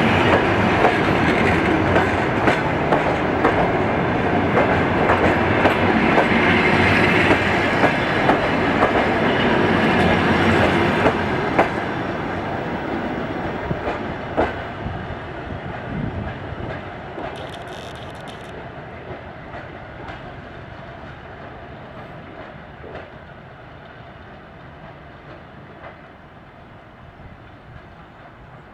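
Passenger train rolling past, its wheels clattering over the rail joints with sharp clicks, then fading steadily as the train moves away.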